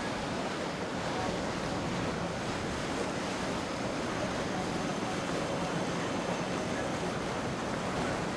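Steady rushing noise of water and wind, even throughout with no distinct events.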